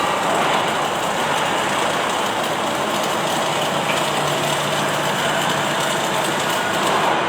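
Automatic arc-welding machine running, a steady, unbroken hiss amid industrial machine noise.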